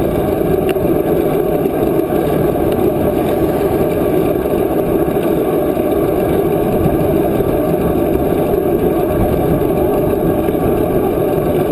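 Steady rush of wind buffeting the camera microphone while cycling, a constant loud roar with no breaks.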